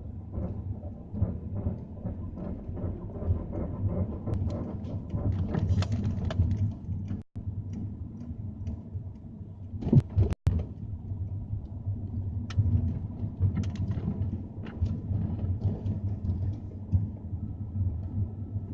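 Irregular creaking and clicking over a steady low rumble, with a louder knock about ten seconds in.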